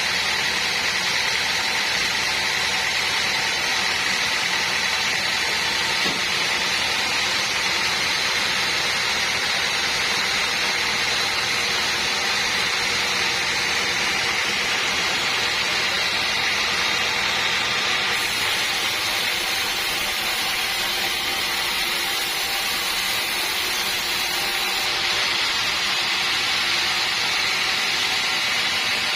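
Band sawmill running steadily: a continuous high whine and hiss that holds without a break.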